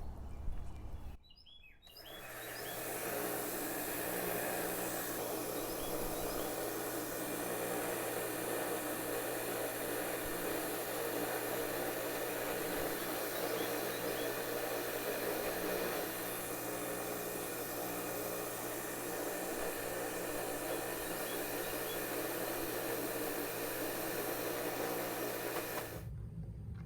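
Bench grinder motor spinning up about two seconds in and running steadily while the rough edges are ground off cast aluminium ingots.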